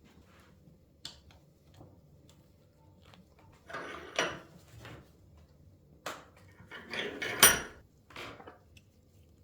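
Small metal parts clinking and clattering against each other and the bench as a brake caliper is put together: a light click about a second in, then two short bursts of clattering, the louder one near the end.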